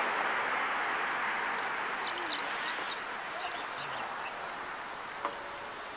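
A few quick, high bird chirps about two seconds in, with fainter ones after, over a steady outdoor hiss that slowly fades.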